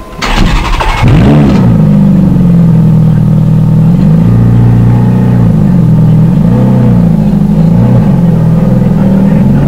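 Ferrari F430's V8 with a Tubi exhaust starting up: a loud burst as it catches, then a loud steady idle whose pitch swells and dips a few times.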